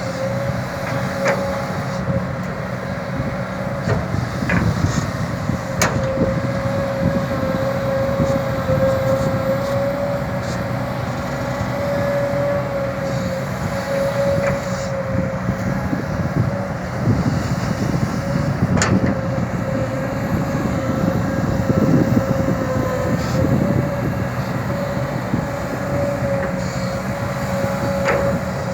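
Kobelco SK200 hydraulic excavator running steadily while digging and loading soil, with a constant high whine over the engine's rumble and a few sharp metallic clanks.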